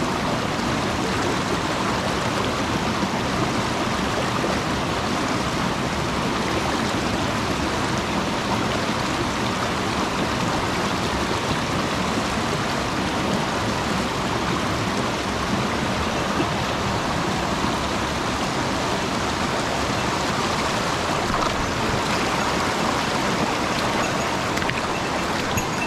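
Mountain stream water rushing steadily and evenly.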